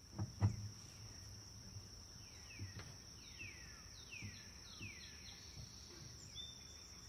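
Woodland birds calling faintly: a string of thin whistled notes, each falling in pitch, over a steady high-pitched whine. There are a couple of soft knocks at the start.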